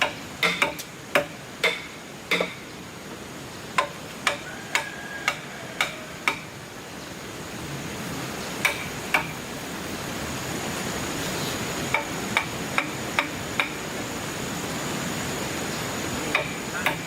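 Repeated sharp knocks of a hand tool striking wood, in uneven runs of about two blows a second with pauses between, each with a short ring. A steady high whine sets in about halfway through.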